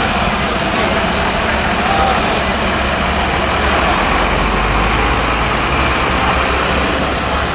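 Heavy army trucks' diesel engines running steadily as they drive past in convoy, with a short hiss about two seconds in.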